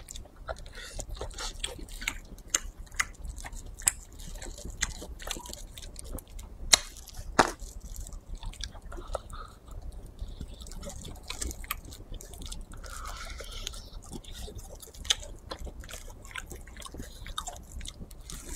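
Close-up chewing of chewy, spicy meat strips in chili oil, with many short sharp mouth clicks scattered throughout, picked up close by a clip-on microphone.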